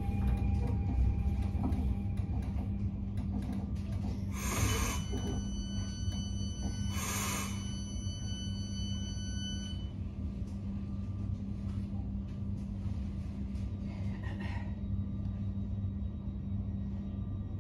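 Elron electric train standing at a station platform, its interior humming steadily, with two bright chime-like signals about four and seven seconds in that ring on for a few seconds, and a softer one near the end.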